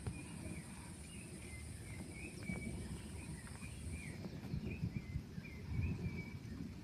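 Low, irregular storm rumble from wind and distant thunder, with a string of short repeated chirping calls from a small animal over it and a thin high buzz that stops about four seconds in.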